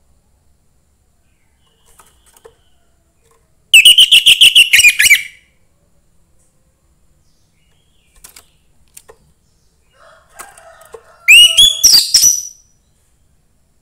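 Young wild-caught orange-headed thrush singing: two loud bursts of quick, repeated whistled notes, the first about four seconds in and the second near the end, each lasting a little over a second.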